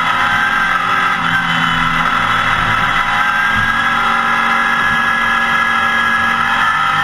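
Porsche 914 GT1 race car's engine running at high, fairly steady revs under way on track, heard loud from inside the stripped cockpit, with small shifts in pitch.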